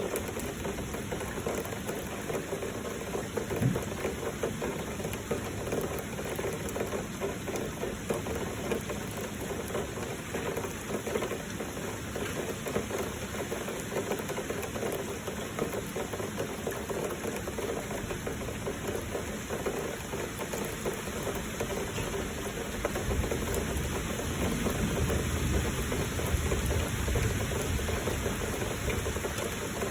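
Heavy rain falling steadily, an even hiss. A low rumble builds in the last few seconds.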